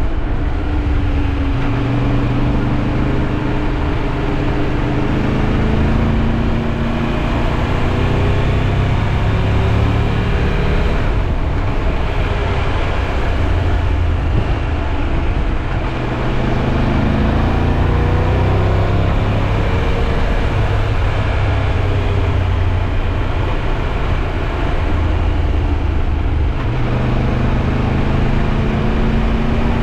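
Triumph Tiger 1200 motorcycle's three-cylinder engine running under way, its pitch rising and falling with the throttle on a twisty road, over a steady rush of riding wind.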